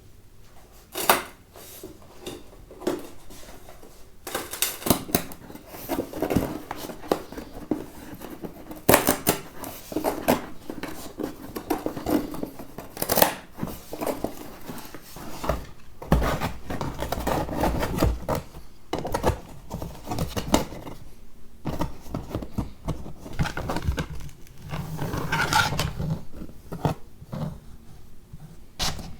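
Close household handling sounds: a steady run of irregular sharp clicks and knocks mixed with short rustles.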